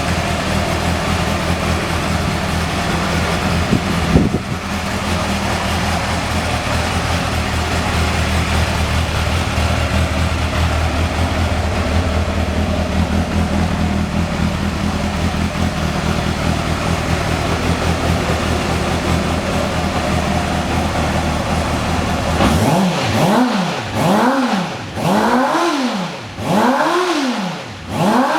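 Honda CB400 Super Four VTEC's inline-four engine running through an aftermarket muffler, idling steadily. Near the end it is blipped five times in quick succession, the pitch rising and falling with each rev.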